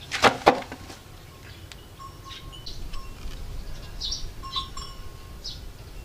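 Two sharp snaps in quick succession at the start, then birds chirping in short, scattered calls.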